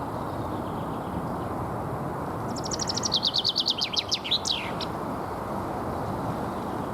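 Common chaffinch singing one spring territorial song phrase a couple of seconds in: a rapid run of notes falling in pitch, ending in a quick downward flourish, about two seconds long. A steady low rumble runs underneath.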